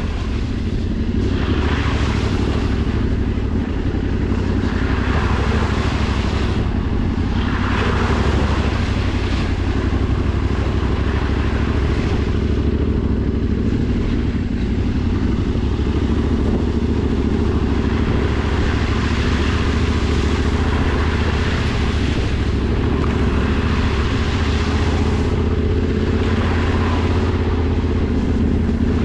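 Adventure motorcycle engine running steadily under way, with rushing wind and road noise that swells and fades every few seconds.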